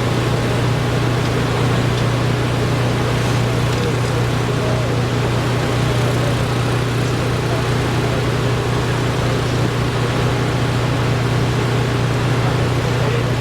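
A steady low mechanical drone with an even rushing noise over it, unchanging throughout.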